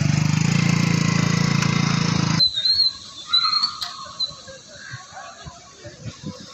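A motorcycle engine running close by with a steady, fast-pulsing drone, which stops abruptly a little over two seconds in. After that comes quieter street noise with a few brief high chirps.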